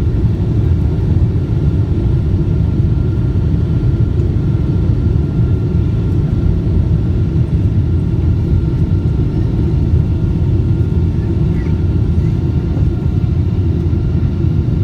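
Boeing 777-200 jet engines at takeoff power, a loud, steady low rumble with a faint steady whine above it.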